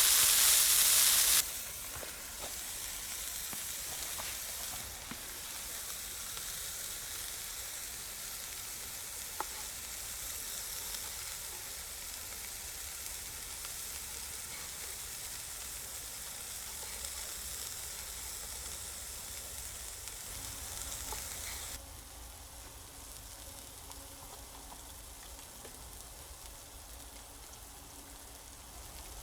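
Burger patty sizzling as it fries in a pan. The sizzle is loud for the first second or so, then settles to a steady, quieter hiss with an occasional small pop.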